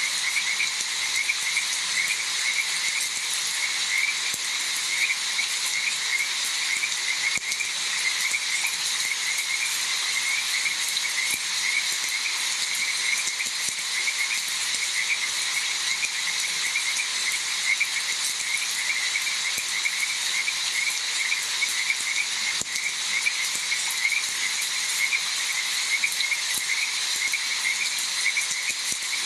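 A chorus of frogs calling in rapid, evenly repeating notes over a steady high hiss.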